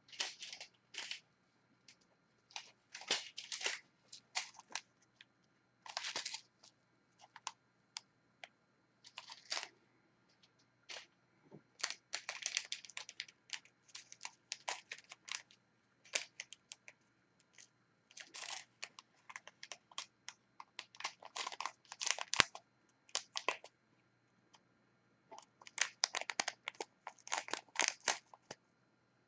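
Diamond painting at close range: a drill pen and small resin drills on the canvas and tray give scattered small clicks and taps. These come in irregular clusters of quick clicks with short pauses between them.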